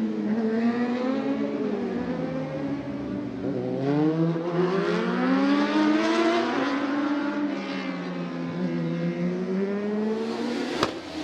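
Racing motorcycle engines at speed: the revs drop for a few seconds, climb hard from about four seconds in, then fall away again. A single sharp click sounds just before the end.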